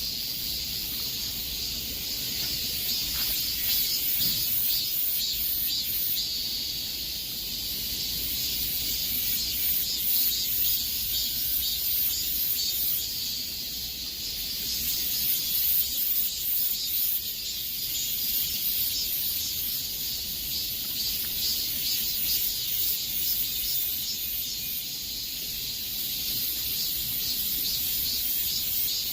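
Chorus of cicadas buzzing in dense high-pitched shrilling that swells and eases every few seconds.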